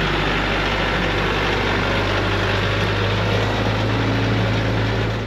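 Tractor engine running steadily, a low even hum under a broad mechanical noise.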